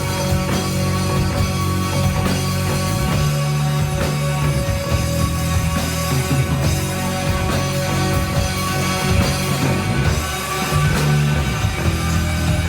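A live rock band playing an instrumental passage between sung verses: electric guitar over bass and drums, with a steady, dense sound.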